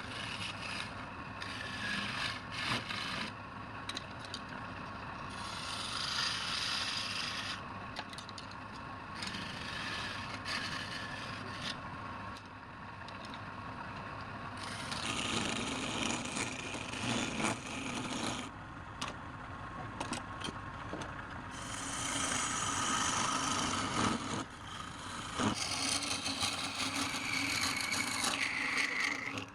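Woodturning on a lathe: a cutting tool scraping against the spinning wood in uneven spells, with the noise rising and falling as the cut changes.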